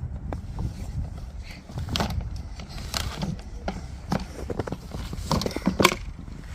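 Irregular crunching and knocking in snow, a dozen or so short strokes at uneven intervals with the sharpest near the end, over a low wind rumble on the microphone.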